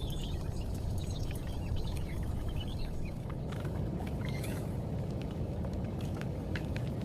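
Steady low rumble of a moving passenger train, with faint scattered clicks and a few faint high chirps over it.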